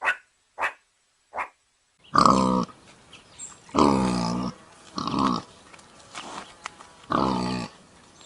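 An animal giving three short, sharp barks in quick succession. About two seconds in, a different animal starts a series of four long, pitched calls.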